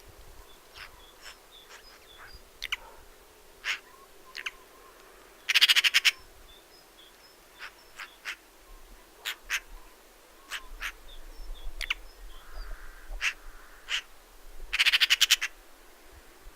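Eurasian magpie's harsh rattling chatter: two loud bursts of rapid, evenly spaced notes, the first about five and a half seconds in and the second near the end, with shorter single calls and clicks between them.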